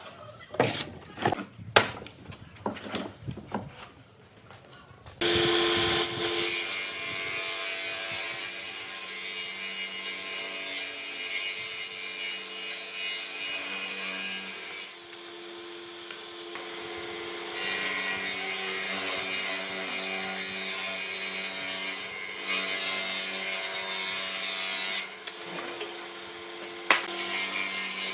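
A few seconds of scattered knocks and taps on wood, then a power tool starts working wood and runs steadily, its motor tone constant, easing off twice along the way.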